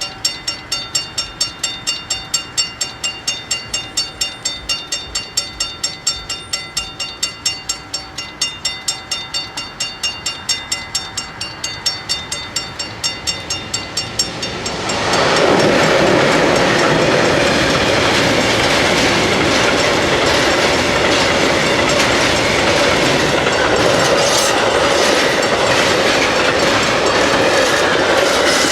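Level-crossing bells ringing at about three strikes a second. About fifteen seconds in, a train arrives and runs over the crossing, its wheels clattering over the rail joints and drowning out the bells.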